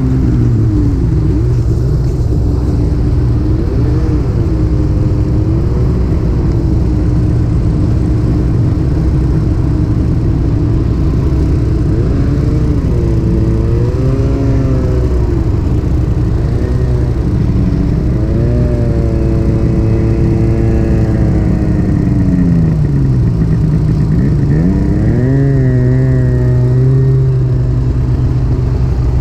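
Snowmobile engine running at speed on the trail, its pitch rising and falling with the throttle, sagging low about 23 seconds in and climbing again, over a steady low rumble.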